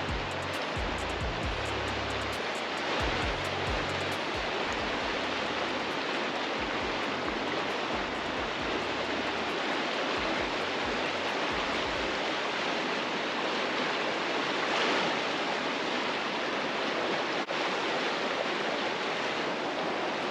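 Steady rush of flowing water, like a stream or river, with a background music bass line underneath that stops about twelve seconds in.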